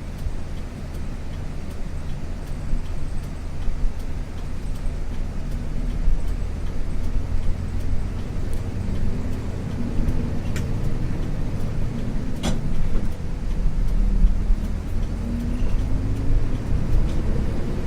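Isuzu U-LV224N bus's 6QB2 diesel engine and road noise heard from inside the cabin while the bus drives. The engine note rises in pitch over the last few seconds as it accelerates, with a few faint rattles.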